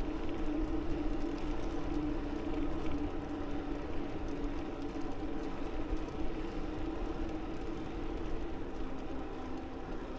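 Wind rumbling on the microphone while riding a bicycle, with a steady droning hum that sags slightly in pitch near the end.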